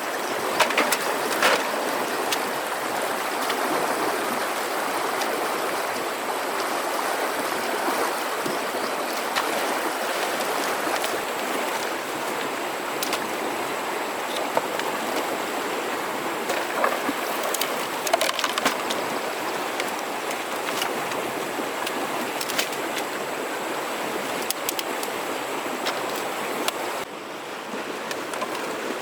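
River water flowing steadily, with scattered light knocks and clicks on top.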